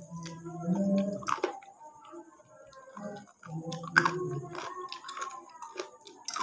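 Close-up chewing and mouth sounds of a person eating ayam geprek, crispy smashed fried chicken, by hand, with irregular sharp crackles as the chicken is bitten and torn, the loudest about four seconds in. Two stretches of low humming sound under the chewing.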